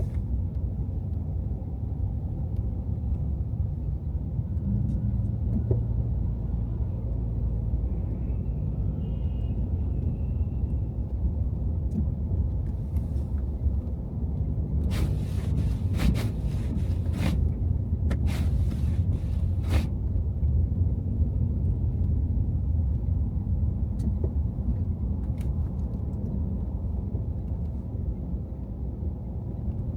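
Car driving on snowy city streets: a steady low road and engine rumble, with a few brief sharp noises between about 15 and 20 seconds in.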